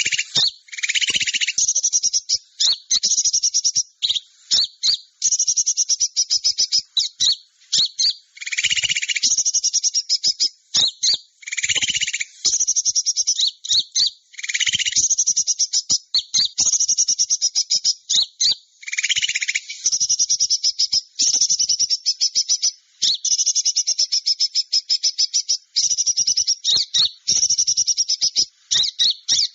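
Small-songbird lure recording: rapid, high-pitched chattering trills in almost unbroken runs, with several lower, buzzier calls mixed in.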